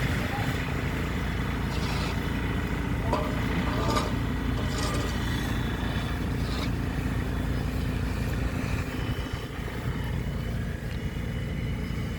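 An engine running steadily, with a few short knocks in the first half. The low hum weakens about eight or nine seconds in.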